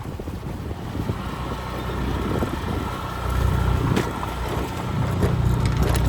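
An engine running steadily at a low hum, with wind buffeting the microphone.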